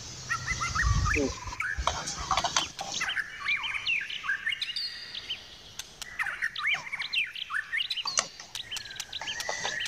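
Small birds chirping, many short rising and falling calls one after another, with a brief low thump about a second in and a few light clicks.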